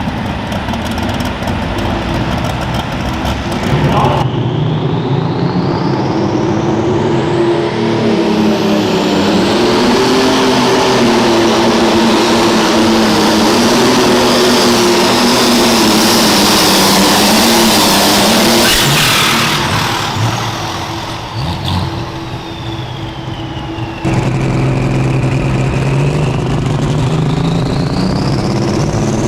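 Pulling tractor's engine running hard at full throttle under load, its pitch wavering, with a turbo whine that rises sharply in pitch. The engine drops back about twenty seconds in. A few seconds later it comes in loud again, its whine dipping and then climbing in pitch near the end.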